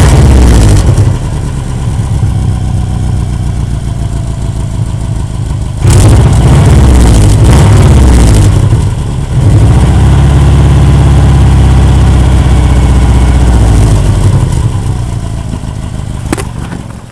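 Subaru Legacy EJ22 flat-four engine running with a loud exhaust leak, rising in level a few times as it is revved and settling back, fading near the end. The leak is at an exhaust joint bolted rigidly without its spring bolts, which has cracked open from hitting snowbanks.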